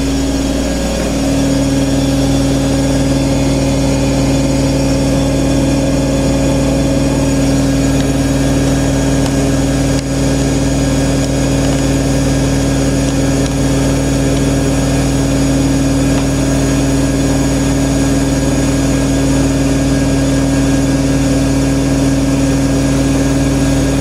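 IKEA RENLIG IWM60 washing machine spinning at high speed: a loud, steady hum with a higher whine that settles onto an even pitch about a second in and holds there.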